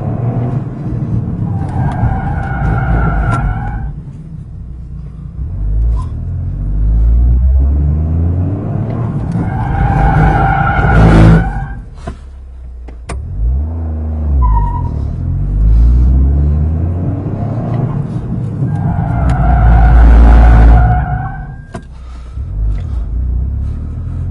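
Toyota GR Corolla's 1.6-litre turbo three-cylinder running with a low hum, broken three times by a pitched squeal lasting a second or two each. This is the abnormal noise from the left front wheel that appeared after drift practice, guessed by the dealer to be something caught in a rotating part.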